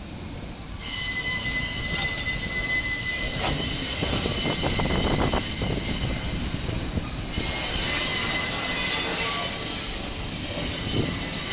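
Wheels of a New York City Subway R68-series train squealing as it moves through the yard. A high, steady screech of several tones starts suddenly about a second in, fades briefly near seven seconds, then returns, over the low rumble of the cars.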